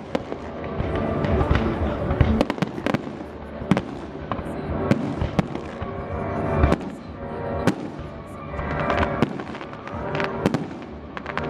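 Aerial fireworks bursting in an irregular run of many sharp bangs and crackles, with music playing underneath.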